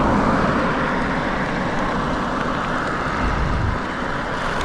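Steady rushing noise from riding an electric mountain bike: wind on the microphone and tyre noise, swelling briefly about three and a half seconds in.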